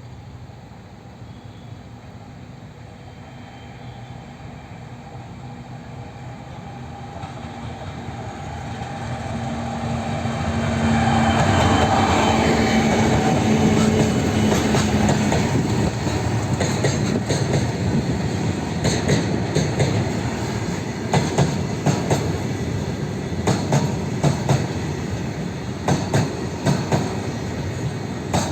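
A locomotive-hauled train approaching and passing close by. A steady hum from the locomotive grows loud about ten seconds in, then fades. The coaches' wheels then clatter rhythmically over the rail joints.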